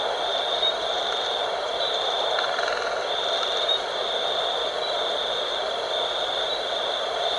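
Night wind blowing steadily, with a high buzzing note over it that comes in stretches of about a second, broken by short gaps.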